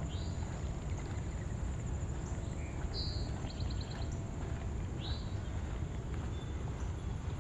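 Outdoor ambience: a few short bird chirps, rising in pitch, near the start, around the middle (one followed by a quick trill) and about five seconds in, over a steady high insect drone and a constant low rumble.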